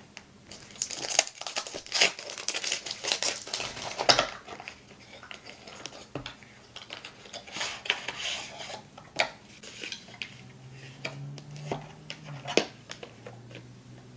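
Small hard objects being handled: a quick run of clinks and knocks over the first few seconds, like dishes or utensils, then scattered single clicks.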